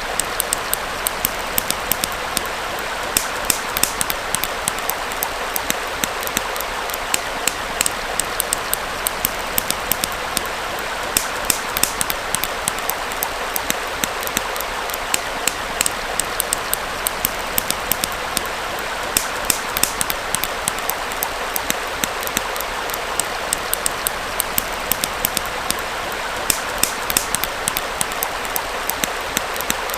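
Small stream flowing steadily, with a campfire crackling over it in frequent sharp, irregular pops.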